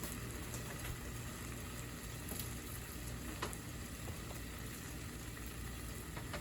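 Chicken strips frying in a pan with a steady, even sizzle, with a few faint clicks.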